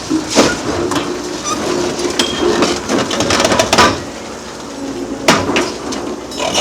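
Excavator-mounted demolition shear breaking up a concrete bridge: irregular sharp cracks, knocks and clattering of concrete and debris over the steady run of the excavator's diesel engine, with a brief quieter spell past the middle.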